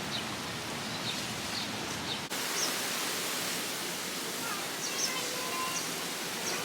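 Outdoor ambience: a steady rushing noise with small birds chirping now and then. The noise changes abruptly a little over two seconds in.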